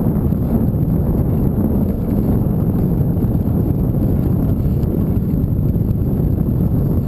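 Steady low rumble of wind buffeting the microphone while riding a bike, mixed with road noise.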